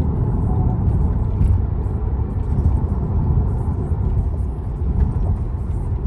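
Kia Stinger twin-turbo V6 under way, heard from inside the cabin: a steady low rumble of engine and road noise.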